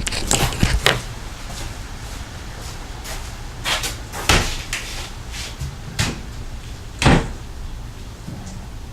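Several separate knocks and clunks of a cupboard door and of objects being moved while searching for something, spaced a second or more apart, with the loudest knock about seven seconds in.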